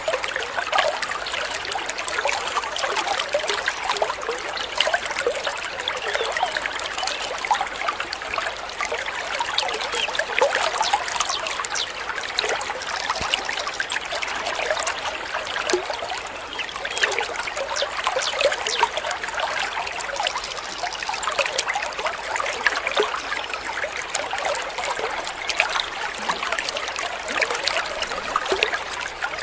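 Small stream of water trickling and babbling steadily, a continuous bubbling splash.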